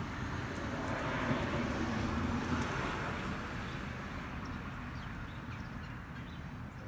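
A vehicle passing by, its road noise swelling over the first couple of seconds and then fading away, with a few faint bird chirps.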